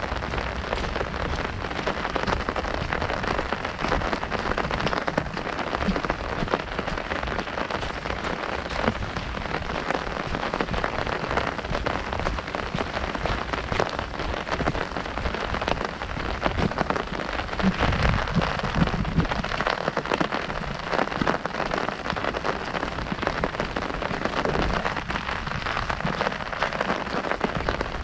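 Heavy rain drumming steadily on an umbrella canopy overhead, a dense patter of drops, with a short stretch of heavier low thumps about two thirds of the way through.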